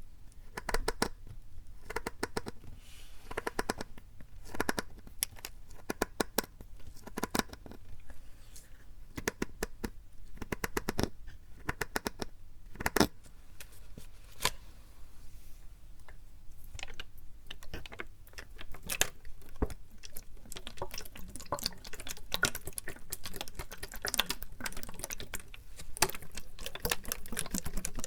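Plastic PET drink bottle being tapped and handled close to the microphone: a quick, irregular run of sharp clicks and crackly taps.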